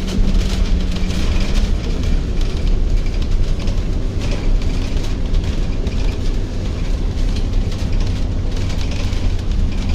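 Steady low rumble of a vehicle in motion, with a hiss that swells and fades every second or so.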